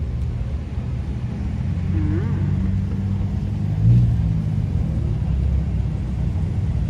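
Car engine running at low revs, a steady low rumble, with a brief louder swell about four seconds in.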